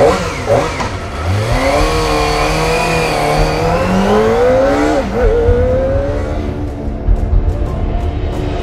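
Kawasaki Ninja ZX-25R's 249 cc inline-four engine revving and pulling away under throttle, its pitch climbing, dropping sharply about five seconds in, then climbing again.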